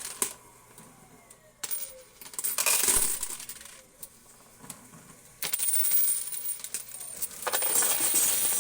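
Quarters dropping and clattering in a coin pusher game: a few short bursts of coins, then a longer clattering run from about five seconds in.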